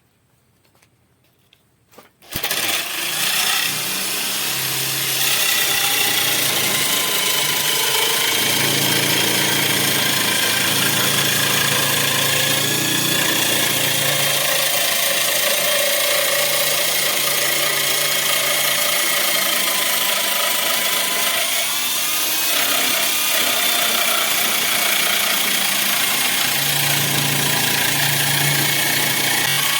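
Electric drill starting about two seconds in and running steadily at speed, with a whining motor note that wavers slightly, as it spins a piece of wood to round it into a wooden peg.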